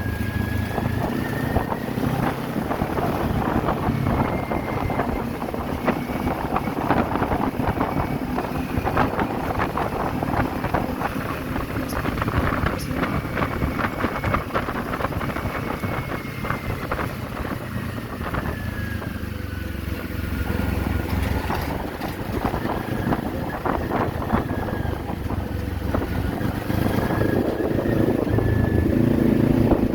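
Kawasaki Z400 parallel-twin motorcycle engine running on the move, mixed with heavy wind buffeting on the microphone. It gets a little louder near the end.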